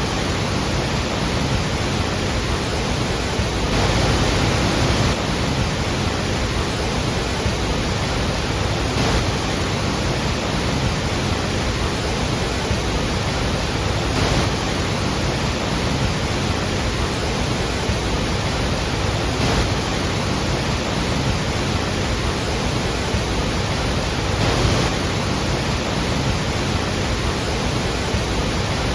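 Iguazú Falls: a steady, loud rush of heavy falling water, swelling slightly a few times.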